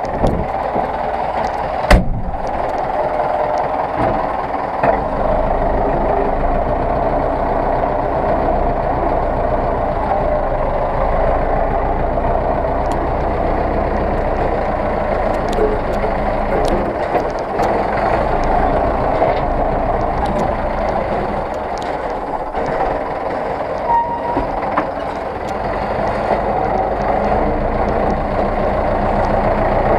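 Zetor 6911 tractor's diesel engine running steadily, with one sharp knock about two seconds in and a few lighter clicks.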